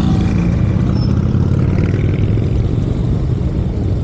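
Motorcycle engines running in street traffic, a steady low rumble.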